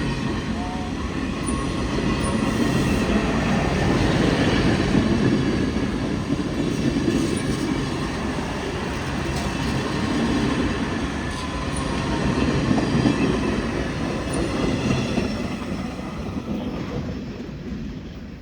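Train rolling past with a steady rumble of wheels on the rails, swelling and easing, then fading away near the end.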